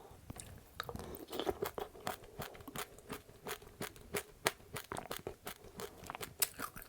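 Close-up chewing of crunchy seeds, with passionfruit seeds among them: a quick, uneven run of small, sharp crunches and clicks, several a second.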